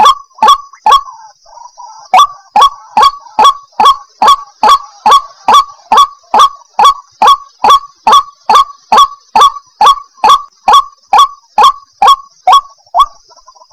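White-breasted waterhen calling, a harsh honking note repeated about three times a second, each note dropping in pitch, with a short break about a second in.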